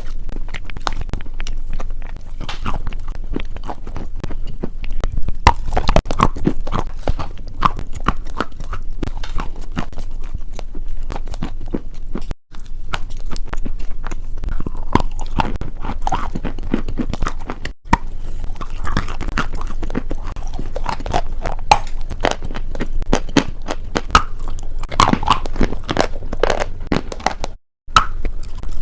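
Close-miked crunching and chewing: a steady stream of crisp crackly bites and chews, with three brief silent gaps where the recording is cut.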